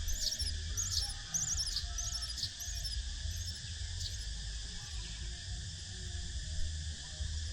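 Nestling birds chirping: quick high chirps, many in the first three seconds, then only a few. Under them run a steady high hum and a low rumble.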